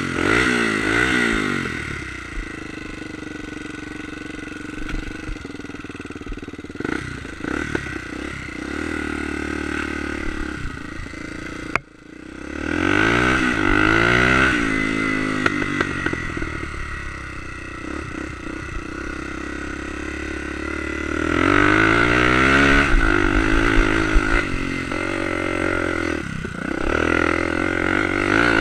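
Enduro motorcycle engine revving hard and accelerating, its pitch climbing three times: near the start, about halfway through and again about three quarters of the way in, with steadier running at lower revs in between. The sound cuts out briefly just before the middle surge.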